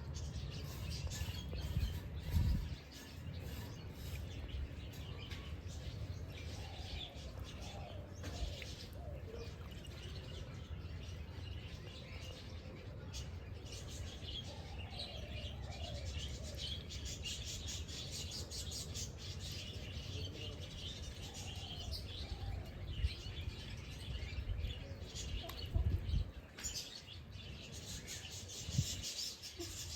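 Many birds chirping and calling together, short high chirps mixed with lower gliding calls, over a steady low rumble. A few louder low thumps come about two seconds in and twice near the end.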